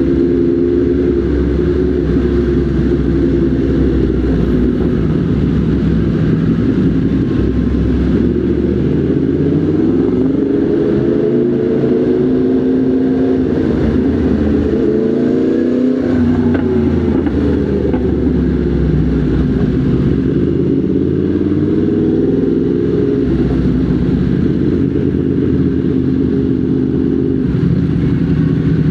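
Motorcycle engine running, its revs rising and falling several times in the middle of the stretch, then settling back to a steady note.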